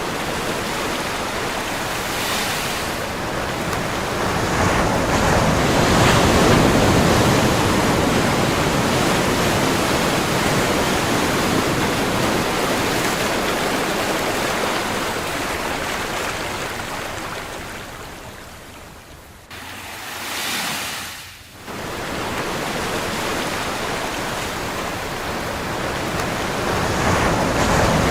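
Ocean surf: a steady rushing wash of waves that swells and slowly ebbs. A little past two-thirds of the way through it breaks off abruptly, a short swell follows, and then the rush comes back.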